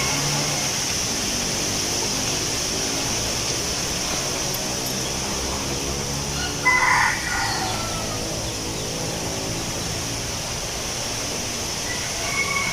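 Steady wind in the leaves with a constant high-pitched hiss behind it; a rooster crows once about halfway through, and another faint crow starts near the end.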